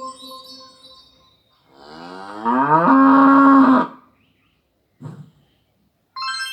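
A cow mooing: one long moo, rising at first and then held steady for about two seconds, starting about two seconds in, after the fading end of an earlier moo.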